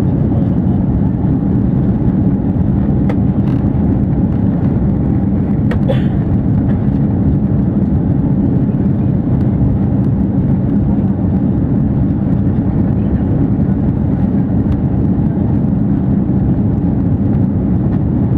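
Steady, loud low drone of an Airbus A330-300's Rolls-Royce Trent 700 turbofans and the rushing air, heard from inside the passenger cabin during takeoff.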